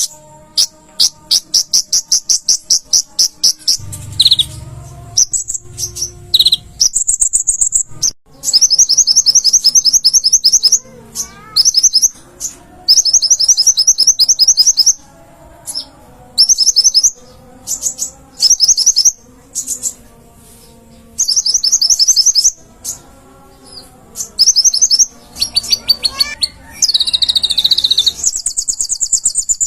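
Konin (kolibri ninja) sunbird singing vigorously: repeated bursts of very fast, high-pitched trilling notes, each burst lasting one to two seconds with short gaps between.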